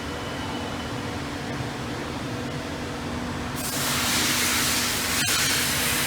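TRUMPF TRUMATIC L 3050 CO2 laser cutting machine running with a steady hum. About three and a half seconds in, a loud steady hiss starts, the cutting gas jetting from the cutting head as it cuts, with one sharp click a little later.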